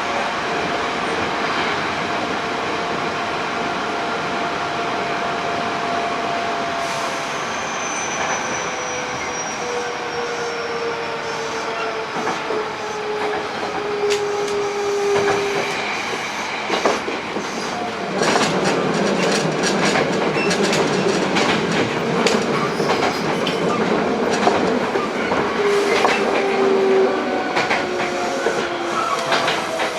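Hankyu 8000 series electric train heard from inside a motor car, with its Toshiba GTO-VVVF inverter whine sliding slowly down in pitch over steady running noise. From about 16 s wheel-on-rail clicks come in, and from about 18 s the rumble grows louder.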